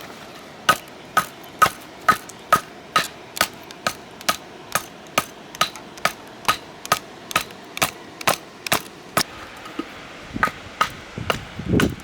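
Hammer striking over and over at about two blows a second, each blow sharp with a short ring. The blows pause briefly near the end, then start again, with a duller, heavier knock just before the end.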